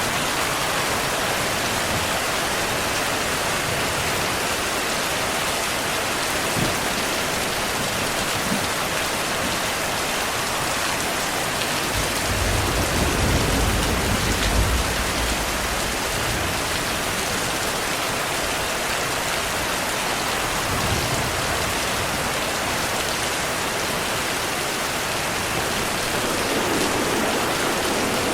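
Steady, dense rainfall. About twelve seconds in, a low rumble of distant thunder swells for about three seconds.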